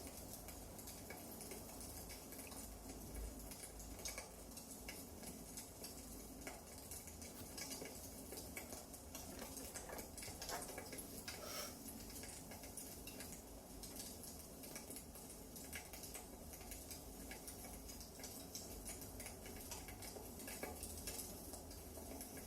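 Firewood burning in a fireplace: a faint, steady scatter of small irregular crackles and pops, with a few sharper snaps about halfway through.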